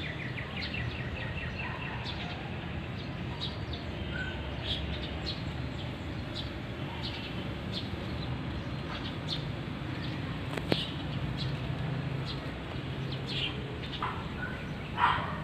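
Small birds chirping on and off over a steady low background hum, with a single sharp click a little past the middle and a louder short call near the end.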